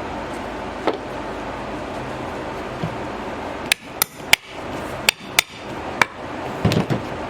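Sharp metallic knocks and taps on a front strut assembly as a new upper strut mount and coil spring are worked into place: one knock about a second in, a quick run of five or six taps about four to six seconds in, and a duller knock near the end.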